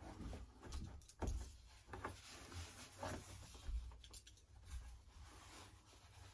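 Faint, scattered clicks and light scraping of a hobby scalpel blade working along a glued plastic seam.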